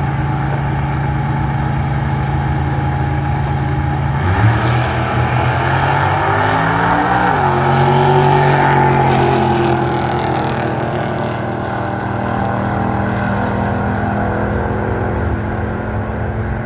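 Drag-racing truck engine running steadily, then revving up with a rising pitch about four seconds in, dropping sharply at a gear change about three seconds later, and running on while slowly getting quieter.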